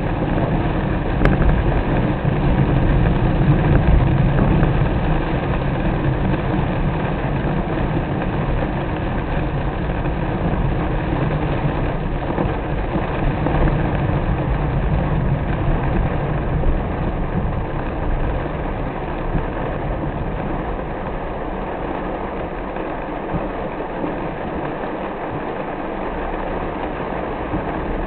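A car driving in the rain: a steady hiss of rain and tyre noise over a low rumble from the car, with the rumble easing off about halfway through.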